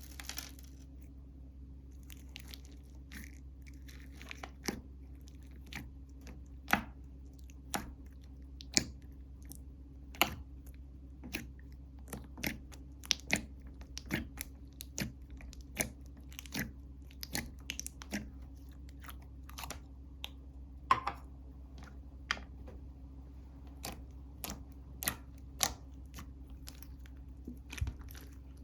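Slime being worked by hand, giving irregular sharp pops and clicks, about one or two a second, over a steady low hum.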